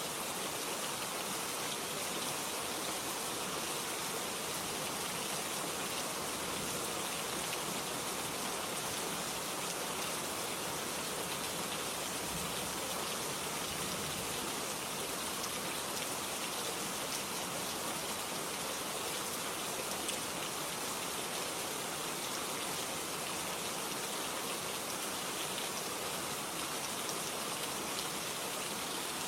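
Steady rain falling, an even hiss of many drops with no breaks or surges.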